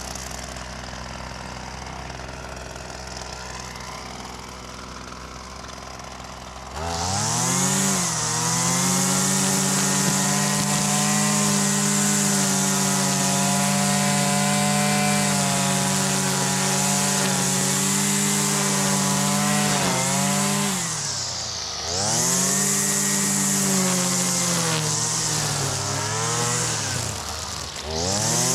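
Husqvarna 326LD string trimmer's small two-stroke engine idling, then throttled up sharply about seven seconds in and held at high revs. The revs fall back and climb again about two-thirds of the way through, with two brief dips near the end.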